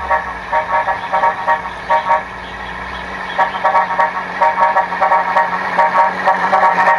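RC Scania V8 truck model's electronic sound module playing a steady engine hum, with short electronic beeps repeating about twice a second and then in quicker runs.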